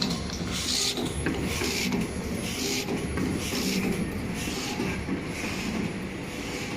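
Hexagonal wire mesh machine running, a steady mechanical hum with a clattering surge repeating about once a second as it weaves the wire.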